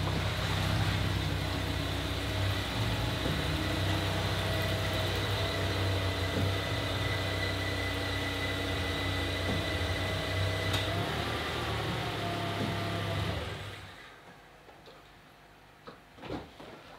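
Minivan engine idling steadily with a faint high whine, then switched off about three-quarters of the way through; a few faint clicks follow near the end.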